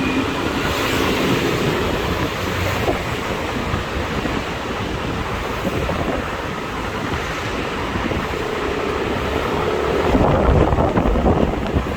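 Wind buffeting the microphone on a moving motorbike, over road and traffic noise, growing louder about ten seconds in.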